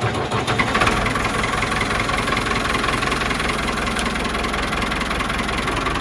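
A vehicle engine running steadily, a little louder from about a second in.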